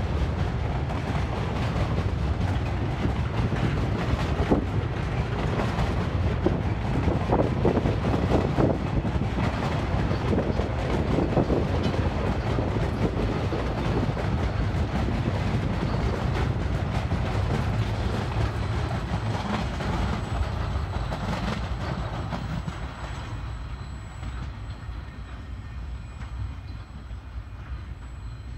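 Wagons of a freight train rolling past: a steady heavy rumble with the wheels clicking and clacking. It fades over the last few seconds as the train moves away.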